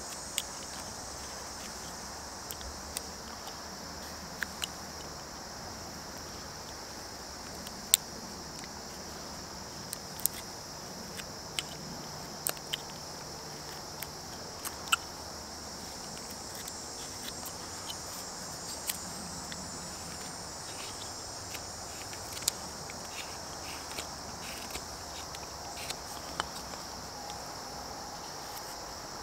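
Carving knife cutting into a basswood block: scattered sharp clicks and snaps of slicing cuts at irregular intervals, over a steady high chirring of insects, likely crickets.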